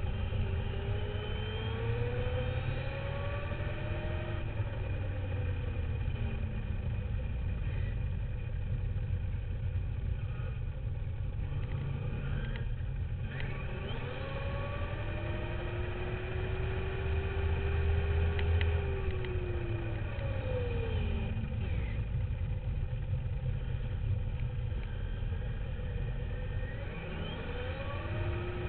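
Motor of a radio-controlled Duratrax dirt bike, heard from a camera mounted on the bike, its pitch rising and falling over and over with the throttle, over a steady low rumble.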